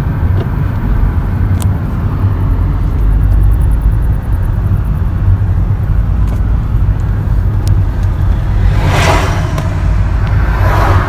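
Steady low road and engine rumble heard from inside a moving car's cabin, with two brief rushes of noise near the end.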